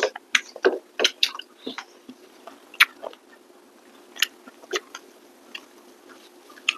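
Close-miked chewing and lip-smacking of people eating rice and curry by hand: scattered short, wet clicks and smacks at an irregular pace.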